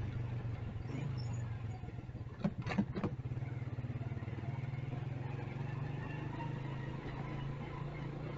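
Motorcycle engine running steadily at low speed. Three sharp clicks or knocks come close together about two and a half seconds in.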